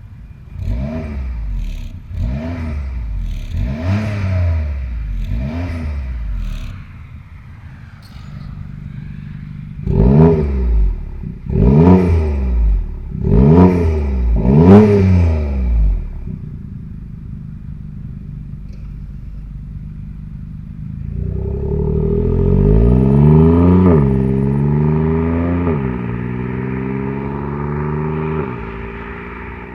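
BMW 120i's B38 three-cylinder engine revving through a DCE valved catback exhaust: five quick rev blips, then four louder blips with idle between, then one longer rev that climbs and slowly falls back toward idle.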